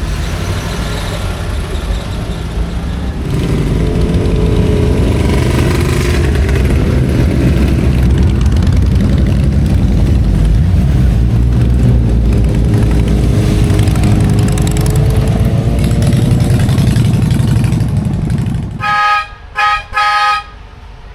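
A motor vehicle's engine running loudly close by, its note wavering. Near the end, three short horn toots.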